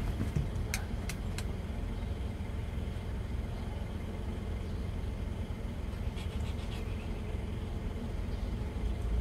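A car engine idling, a steady low rumble, with three short clicks about a second in and a few fainter clicks around six seconds in.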